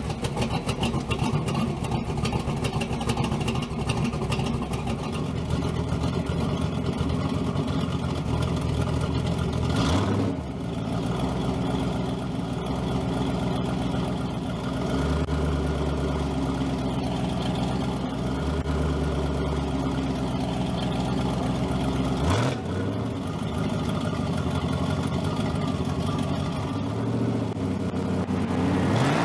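V8 engine in a swapped Pontiac Fiero running as the car is tried out, with the engine note briefly climbing about ten seconds in, again a little past twenty seconds, and once more at the end.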